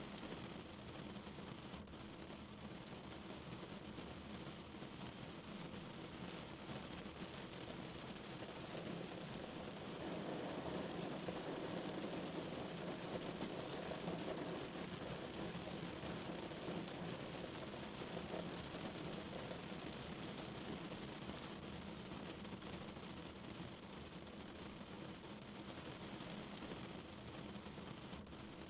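Steady rain falling on a car, growing somewhat heavier about ten seconds in and then easing off again.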